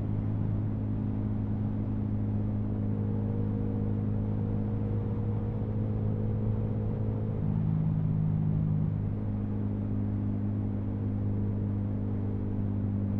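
Yamaha MT-125's single-cylinder 125 cc four-stroke engine running steadily at cruising speed under way. About seven seconds in, the note drops a little lower and louder for a second or two, then returns.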